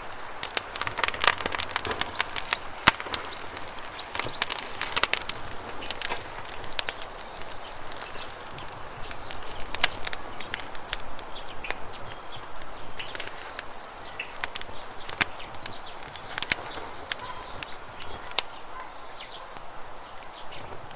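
Campfire crackling with irregular sharp pops, thick in the first few seconds and sparser after, over the steady rush of a river. A few faint bird chirps come in the second half.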